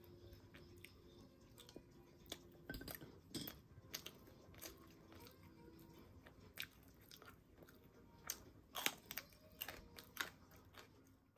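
Faint close-up sounds of a person chewing a mouthful of food, with scattered wet clicks and smacks, a few louder ones clustered near the end.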